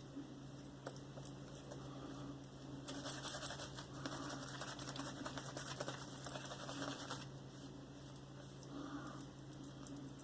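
Horsehair shaving brush working wet Mitchell's Wool Fat soap lather, a faint fine crackling patter that thickens for a few seconds in the middle.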